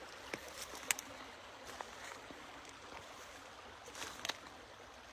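A small babbling brook: water running and splashing over rocks in a steady faint rush, with scattered brief clicks and plinks, a cluster near the start and another about four seconds in.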